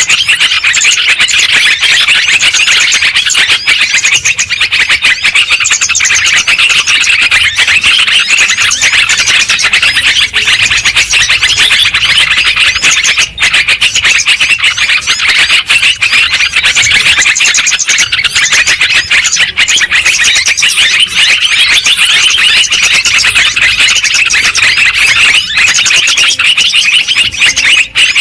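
Yellow-vented bulbuls (trucukan) calling noisily: a loud, dense, continuous chatter of many overlapping chirps. It is a lure recording for bird trapping.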